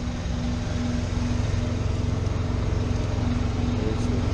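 An engine idling steadily, a low hum with a tone that pulses about twice a second.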